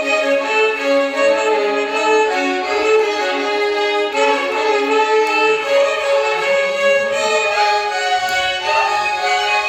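Violin orchestra playing a Carnatic melody together, many violins sounding the same line, with sliding ornaments between notes.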